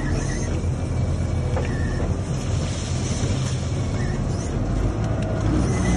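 Hidromek MG600 motor grader's diesel engine running steadily at working speed, with a few faint metallic ticks.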